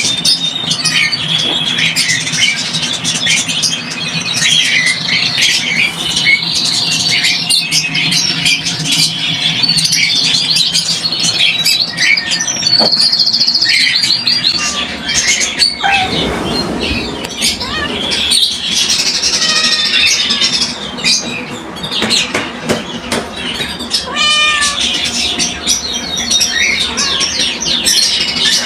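Dense chatter of many caged small birds chirping at once without a break, with a few longer, drawn-out calls standing out about halfway through and again about two-thirds through.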